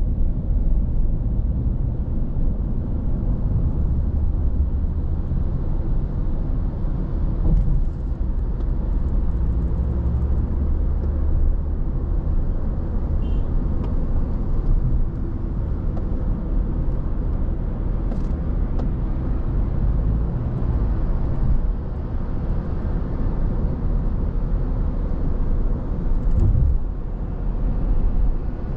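Car on the move: a steady low rumble of road and tyre noise with the engine beneath it, with a brief swell near the end.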